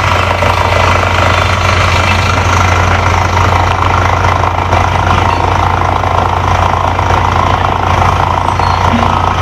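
Heavy mining machinery running with a steady, unchanging low hum and a constant mechanical drone.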